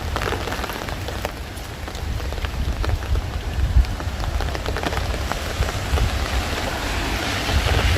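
Steady rain falling on surfaces, with scattered sharp ticks of drops landing close by and a low wind rumble on the microphone.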